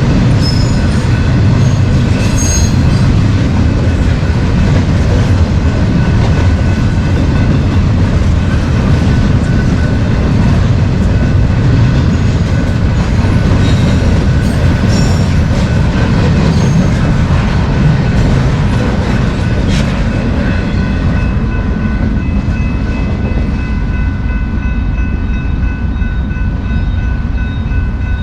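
BNSF freight train rolling past: a loud, steady rumble of wheels on rail, with scattered clicks. A thin, steady squeal from the wheels grows clearer over the last third.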